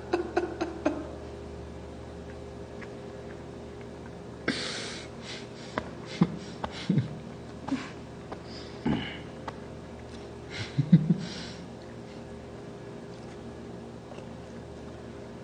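Quiet table sounds during a meal: scattered light clicks of tableware, two short breathy hisses like sniffs, and a few brief low murmurs, over a faint steady hum.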